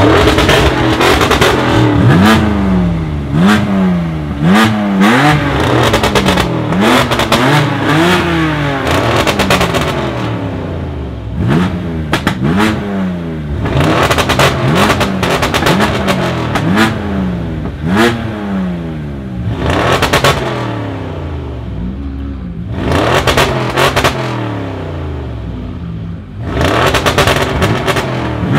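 Tuned BMW M2 Competition's twin-turbo straight-six, with Akrapovic exhaust, downpipes and TTE740 turbos, revved hard while parked: quick blips about one a second, then spaced revs. Each is followed by bursts of sharp pops and bangs on the overrun.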